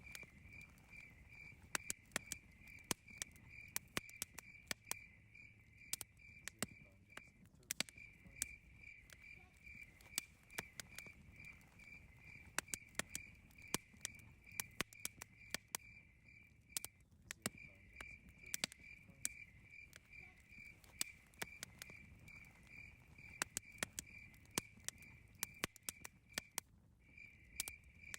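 Wood campfire crackling with frequent sharp pops, over a cricket's steady pulsing chirp that stops briefly three times.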